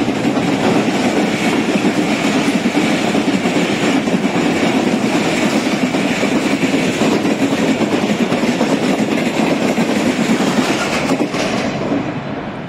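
Express passenger train running through at speed close by, its coaches rolling past in a loud, steady rush of wheel and rail noise that fades near the end as the last coach pulls away.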